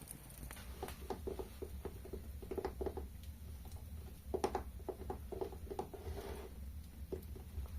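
ASMR tapping: quick fingertip taps on a hard surface, coming in irregular clusters, over a steady low hum.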